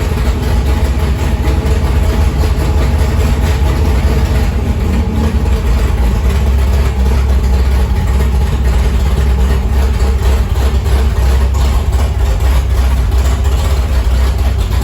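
1967 Ford F-250's engine idling steadily on its first start-up, breathing through newly fitted stainless steel headers, with a strong, even low rumble.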